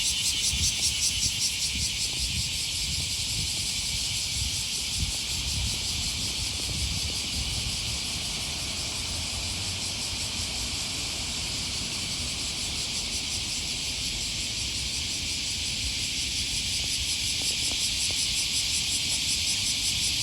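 Chorus of cicadas buzzing steadily and loudly, a dense high shrill with a fast pulsing, over a low irregular rumble.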